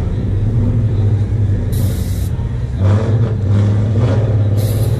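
Swapped LS3 V8 engine idling steadily, with two short bursts of hiss, one about two seconds in and one near the end.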